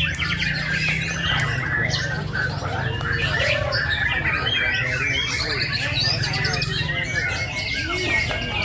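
A songbird chirping and twittering in quick, varied calls, over a steady low hum.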